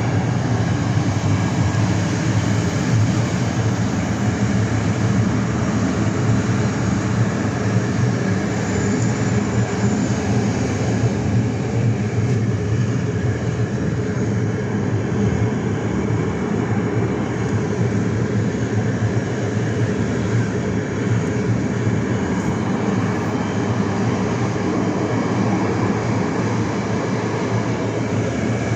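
Passenger train running along the track, heard from inside the carriage: a steady low noise of wheels and running gear.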